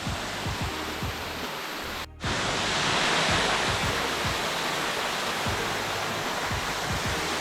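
Waterfall rushing, a steady wash of falling water, with an edit cut about two seconds in after which the rush is louder. Background music plays faintly underneath.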